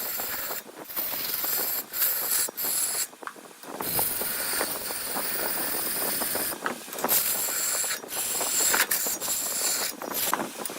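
Turning gouge cutting wood on a spinning wood lathe: a continuous hissing scrape as shavings are cut, broken by several brief pauses, the longest about three seconds in.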